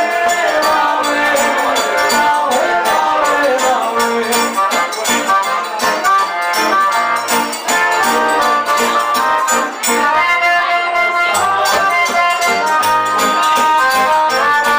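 Forró band playing live: accordion melody over a steady, quick hand-percussion rhythm, with sustained accordion notes standing out in the second half.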